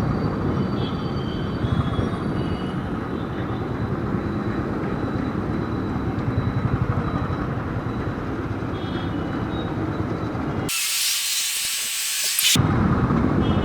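Riding noise from a Royal Enfield Thunderbird's single-cylinder engine: a steady low rumble mixed with road and wind noise at the action camera. Near the end the rumble drops out for about two seconds and a loud hiss takes over.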